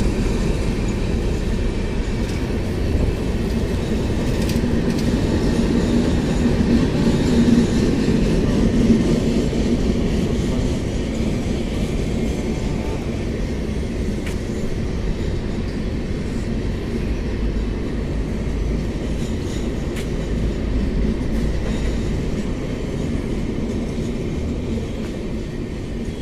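Passenger coaches of an express train rolling past at speed: a steady rumble and rattle of wheels on the rails, easing slightly near the end as the rake passes.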